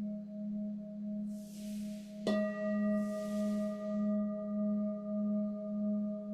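Singing bowls ringing: a sustained low hum whose level wobbles about twice a second. A bowl is struck a little over two seconds in, adding brighter overtones that ring on. Two brief soft hisses come around the strike.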